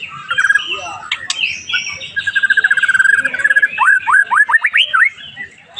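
White-rumped shama singing a varied song. Its mixed chirps give way to a fast rattling trill of repeated notes, followed near the end by a quick series of sharply rising whistles.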